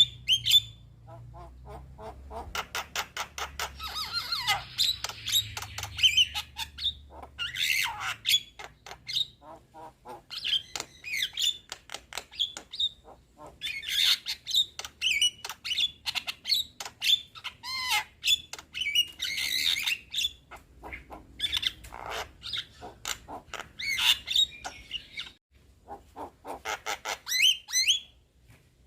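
Young Javan myna chattering and singing: bouts of rapid clicks mixed with harsh squawks and bending whistled notes, broken by short pauses.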